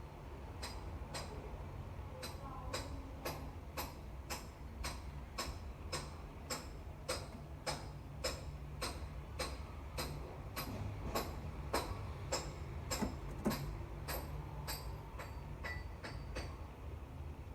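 Sharp, evenly spaced clicks with a slight metallic ring, about two a second, over a steady low hum.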